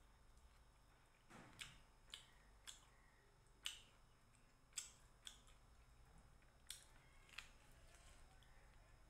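Mouth sounds of eating chicken by hand: quiet chewing with sharp, irregular lip smacks and clicks, about eight over several seconds.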